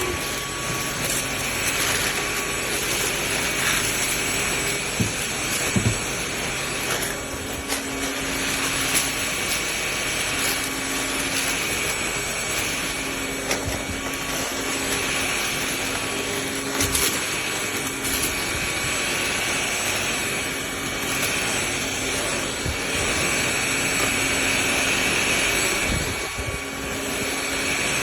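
Cordless stick vacuum running steadily while vacuuming, its motor whine coming and going, with occasional clicks and knocks.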